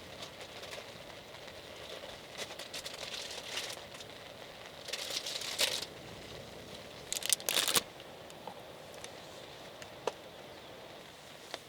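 Crinkling, rustling handling noise in three bursts, the last the loudest, over a steady hiss of rain.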